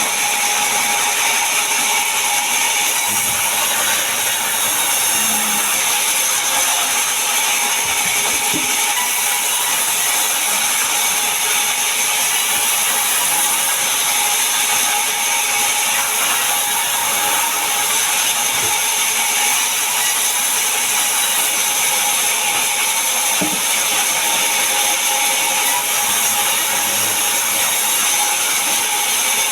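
Power saw cutting mahogany wood: a steady, high-pitched mechanical buzz that runs without a break, with a few faint low knocks.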